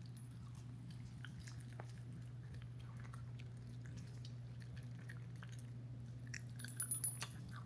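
A small dog eating from its bowl: scattered quick crunches and clicks of chewing over a steady low hum, with a short louder flurry near the end.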